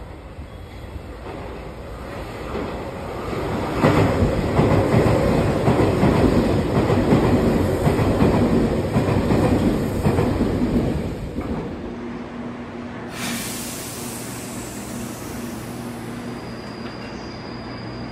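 A Tobu Railway train running past the platform, its wheels clacking on the rails. It builds sharply about four seconds in and fades out near twelve seconds. After a cut, a train standing at the platform gives a steady, quieter low hum.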